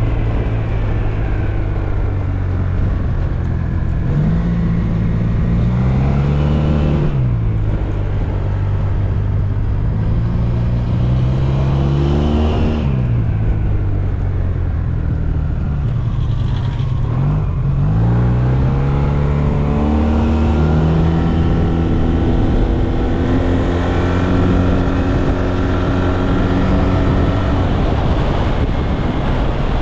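SYM Maxsym TL 508 scooter's parallel-twin engine running while being ridden, its note climbing under throttle and dropping sharply as the throttle closes, about three times, over a steady rush of noise.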